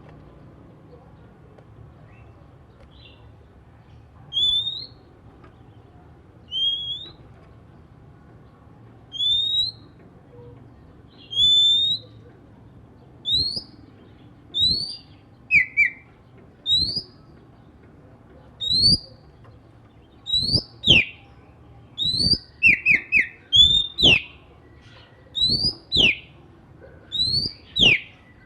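Oriental magpie-robin (kacer) calling: short, rising whistled notes repeated about every two seconds, coming faster and louder from about two-thirds of the way through, with sharp down-slurred notes among them.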